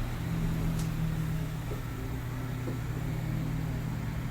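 Wood-fired barbecue rotisserie oven running: a steady mechanical hum with a low drone from its basket-turning motor and blower fan.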